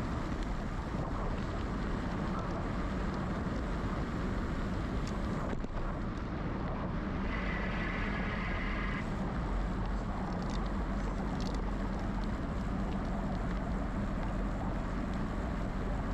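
Wind rushing over the action-camera microphone with the rumble of a GoCycle GX electric bike's tyres rolling along a path, steady throughout. About seven seconds in a brief higher-pitched rasp lasts under two seconds.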